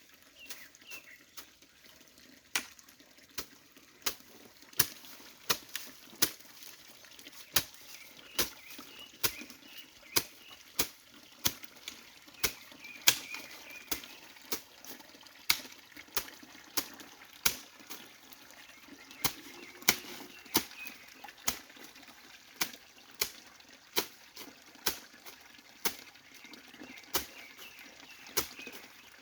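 A hand tool striking over and over in a steady work rhythm, a sharp chop about every second, with a short pause about two-thirds of the way through. A faint trickle of water runs underneath.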